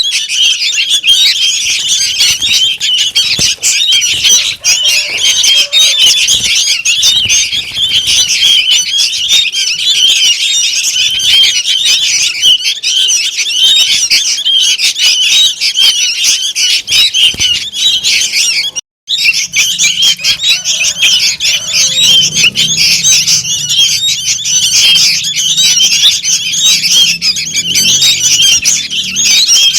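Young sooty-headed bulbuls (kutilang) calling noisily: a dense, unbroken chatter of rapid begging calls from several chicks, of the kind played as a lure to draw in bulbuls. It cuts out for a split second a little past halfway, then carries on.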